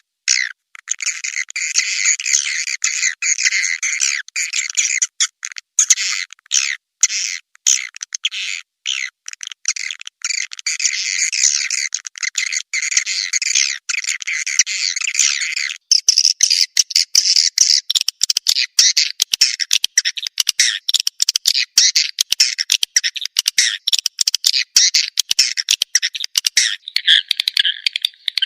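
Recording of swiftlet calls, a dense run of rapid squawking chirps and twittering, played as a lure call to draw swiftlets into a nesting house. About halfway through it changes to a faster, denser stream of short clicking chirps.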